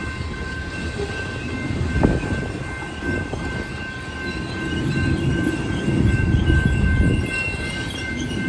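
Freight cars of a coal train rolling past: a steady low rumble of steel wheels on rail, with one sharp clank about two seconds in and a thin, steady high-pitched squeal over it.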